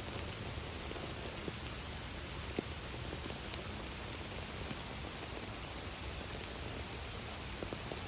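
Steady rain falling, with a few sharper drop hits standing out, the clearest about two and a half seconds in.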